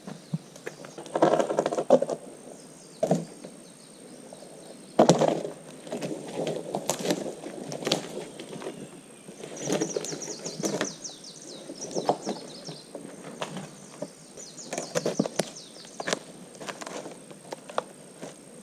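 Wooden poles and branches being handled: irregular knocks and cracks with rustling, the loudest knocks about a second in and about five seconds in. A small bird trills twice in the background.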